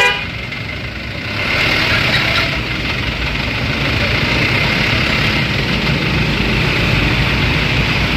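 Dump truck engine running steadily, growing louder about one and a half seconds in and holding there.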